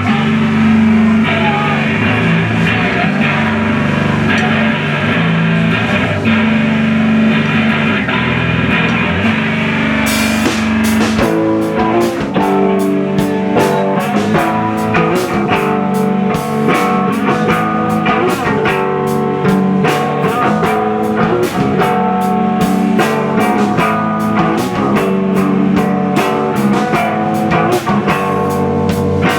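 A rock band playing live: guitars hold sustained chords, and about ten seconds in the drum kit comes in with a steady beat and cymbals.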